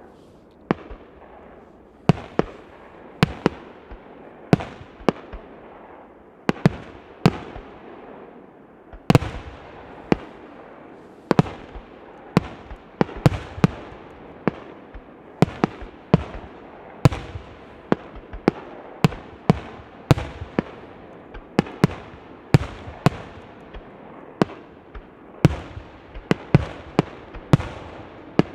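Fireworks display: aerial shells bursting one after another, a sharp bang every half second to second with echoing tails.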